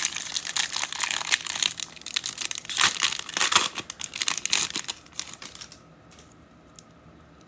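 Foil wrapper of a trading card pack crinkling as it is handled and torn open, a dense crackle that dies down about five and a half seconds in.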